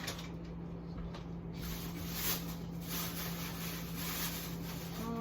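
Faint rustling and handling noises of food packages being moved, over a steady low hum.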